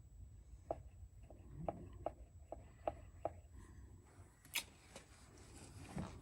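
A series of faint, sharp taps: about six, roughly two a second, then a single louder one near the end.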